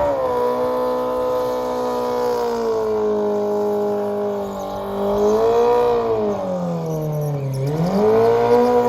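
Car engine revved and held at high revs; the revs sag slowly, dip lower near the end, then climb back up before the sound cuts off.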